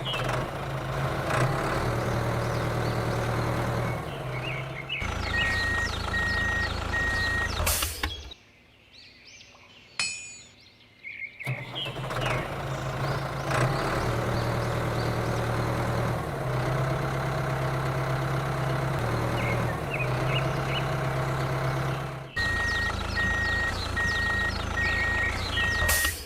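Vehicle engine running with a steady low hum, twice joined by a run of reversing beeps, with short bird-like chirps above; the engine drops away for a few seconds in the middle.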